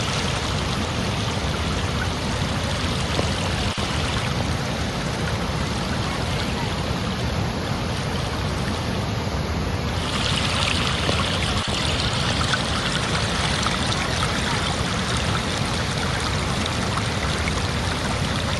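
Running water of a stream flowing steadily, a continuous rushing hiss. About ten seconds in it abruptly becomes brighter and a little louder.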